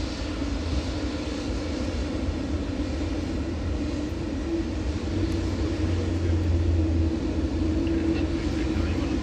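Jet airliner engines rumbling steadily, growing a little louder about five seconds in.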